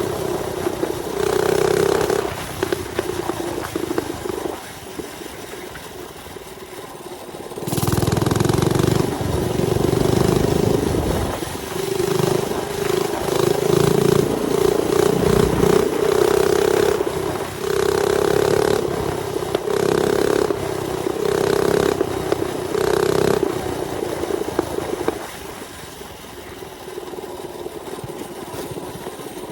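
Mini bike's small engine running under way, revving up and easing off again and again as the throttle is worked, with wind rushing across the microphone. Near the end it settles to a quieter, steadier run.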